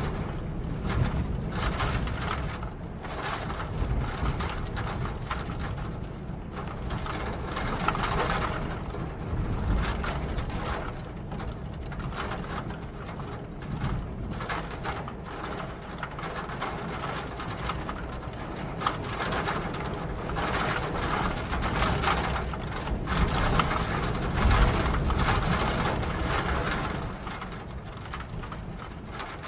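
Rain falling: a steady hiss full of dense, irregular small taps from drops, over a low rumble.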